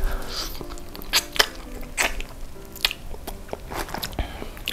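Crunching and chewing on a bite of crispy, sauce-glazed fried chicken, with a dozen or so sharp crunches of the breaded coating scattered through.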